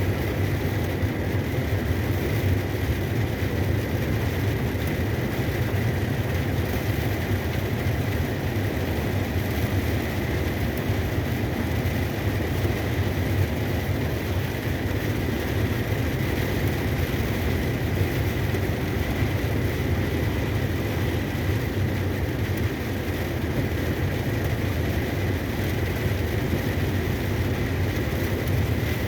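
Truck on the move: steady engine drone and road noise, with a constant faint high whine.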